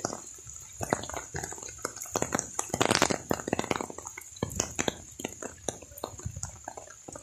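Rain falling, with many irregular drops striking close by, thickest about three seconds in. A steady high-pitched whine sits behind it.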